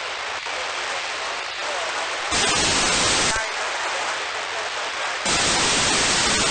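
FM receiver hiss from the LAPAN-A2 (IO-86) satellite voice repeater downlink, steady between transmissions, with two louder blasts of noise about a second long: one a little past two seconds in and one near the end.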